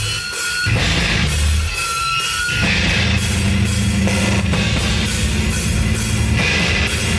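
Live rock band playing loud through a PA: electric guitar, bass guitar and drum kit. The band plays short stop-start hits for the first couple of seconds, then settles into a steady, driving section from about two and a half seconds in.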